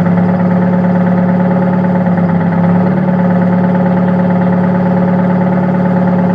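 Car engine idling with a misfire. It runs steadily, its pitch rising slightly about three seconds in.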